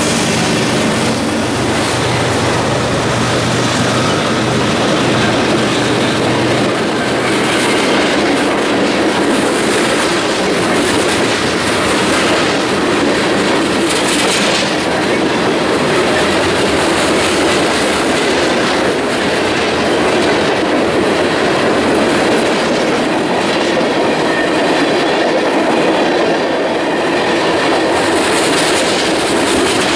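Freight train rolling past at track side. The trailing diesel locomotives' engines hum under the noise for the first several seconds and fade, then a long string of covered hoppers and tank cars keeps rolling by with the steady, loud clatter of steel wheels on the rails.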